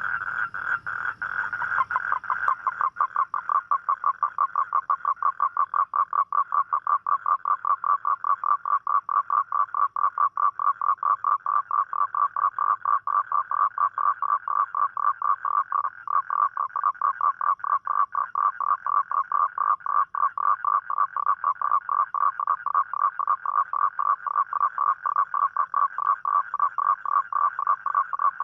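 Toad calling: one long, unbroken trill of fast, even pulses. A second, slightly higher-pitched trill overlaps it at first and stops about two seconds in.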